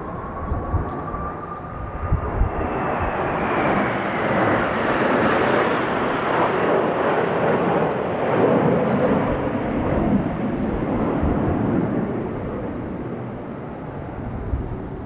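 Jet roar of Blue Impulse Kawasaki T-4 jets flying past. It swells to a peak over several seconds and then fades away, and a whine rises and then falls in pitch. Strong wind buffets the microphone.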